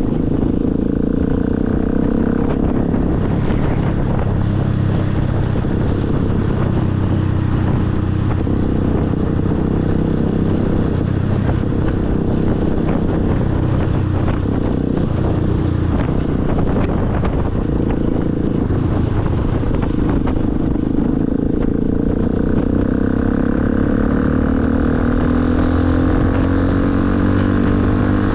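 Motorcycle engine running under way, with wind rumble on the microphone; near the end the engine pitch climbs steadily as the bike accelerates.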